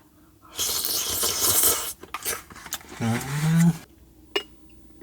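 A person at a meal: a loud breathy slurp or exhale for about a second, a few clicks of dishes and utensils, then a short wordless hum rising in pitch, and a last click.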